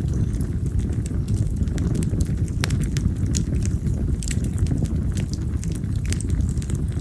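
Wild mountain cherry (yamazakura) firewood burning in an open fire, crackling with sharp irregular pops, several a second, over a low steady rumble.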